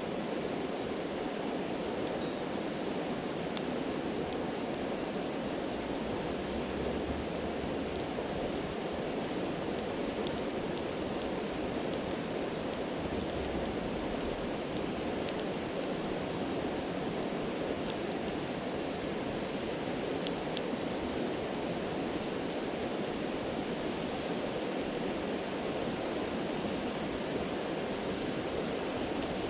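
A steady rush of stream water with the sparse, sharp crackles of a campfire over it; one louder pop comes about twenty seconds in.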